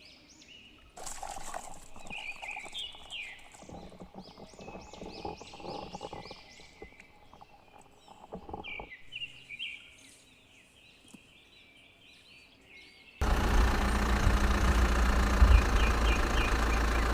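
Small birds chirping, with irregular clattering and knocking from about 1 to 9 seconds in. About 13 seconds in, a loud steady noise starts abruptly and drowns everything else.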